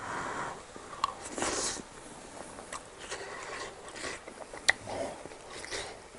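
Close-miked eating sounds of a person chewing soft scrambled eggs: wet mouth noises with small lip smacks and clicks, the sharpest click about three-quarters of the way in.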